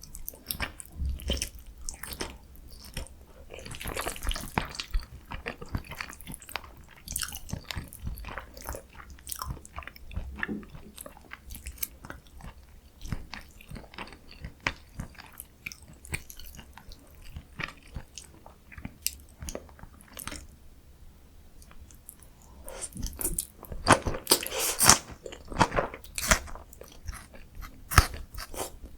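Close-miked eating: a person chewing and biting food in a steady run of small wet clicks and crackles, with a louder, denser stretch of crunchy bites about three-quarters of the way through.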